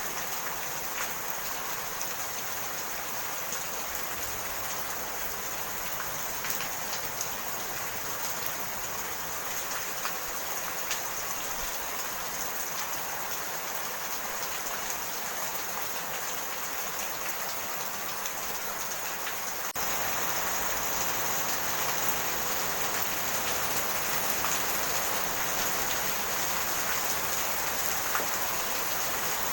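Steady rain falling, an even hiss with scattered faint drop ticks; about two-thirds of the way through it abruptly becomes louder and stays so.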